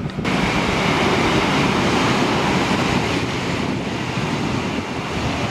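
Adelaide Metro 4000 series electric train passing close along the platform at speed: a loud, steady rush of wheels and air with a faint high whine over it.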